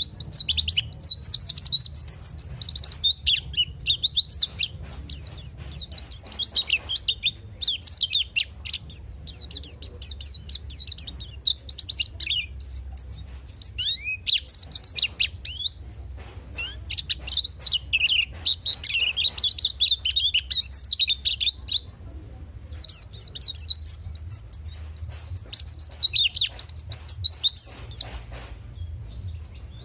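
White-eye (pleci) singing a fast, continuous high twittering song in runs of several seconds separated by short pauses, over a steady low hum.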